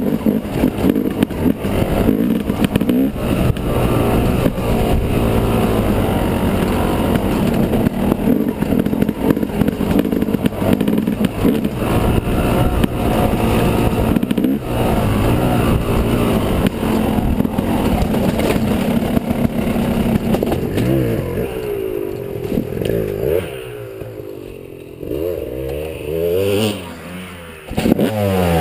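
Yamaha 250 dirt bike engine running under load, with a rushing haze over it. In the last few seconds the revs rise and fall several times, drop briefly to a lower note, then climb again.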